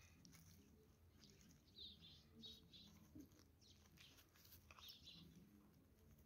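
Near silence, with faint bird chirps a few times: a short cluster about two seconds in and another near five seconds.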